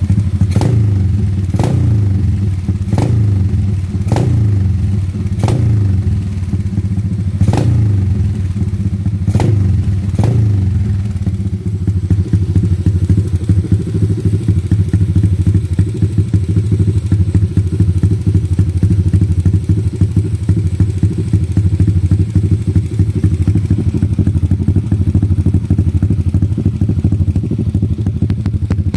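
Drag motorcycle with an open, unmuffled exhaust running loudly. It gives about eight quick throttle blips, each a sharp crack, over the first ten seconds, then settles to a steady idle.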